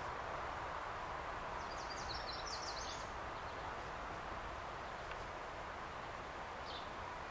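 A small bird sings a quick run of high, sharp notes about two seconds in, with one brief high call near the end, over a steady background hiss.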